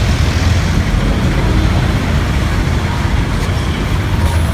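Heavy road and city traffic noise, a steady low rumble of passing vehicles.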